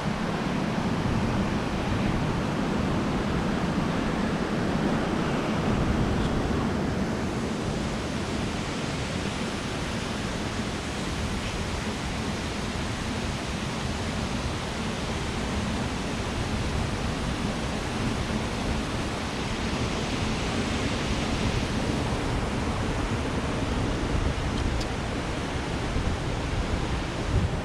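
Steady rush of a river running high in flood, its current churning into whitewater.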